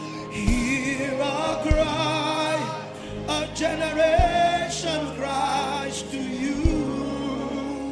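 Gospel worship music: singing voices holding long notes with vibrato over a sustained backing, with a deep drum-like thump every couple of seconds.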